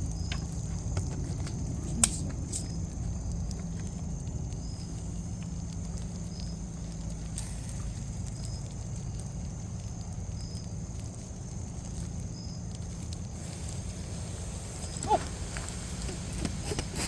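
Campfire burning hard on spilled pine sap, a steady low rumble with a sharp pop about two seconds in.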